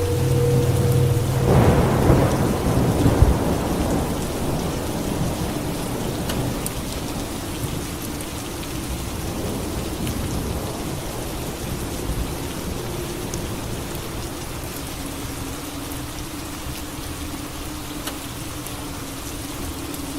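Steady rain falling, with a thunderclap about two seconds in that rumbles for a couple of seconds and fades back into the rain. A faint low steady drone runs underneath.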